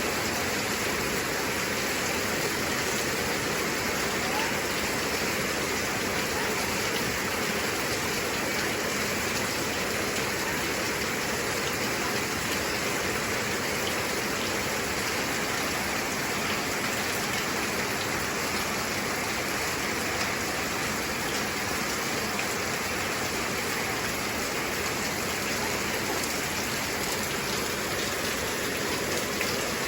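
Heavy rain falling in a steady downpour, a constant dense hiss of drops.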